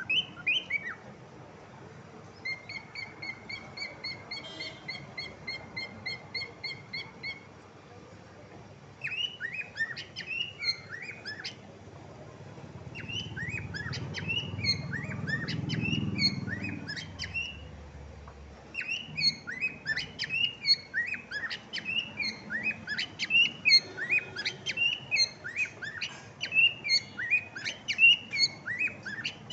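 Cockatiel chirping: a few chirps, then an even run of short repeated notes on one pitch, then busy, quick chirps that grow denser toward the end. A low rumbling noise rises and fades in the middle.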